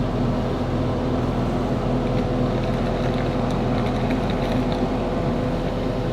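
Excavator's diesel engine running steadily under load as the machine pushes over a dead pine tree, with a few faint cracks and ticks.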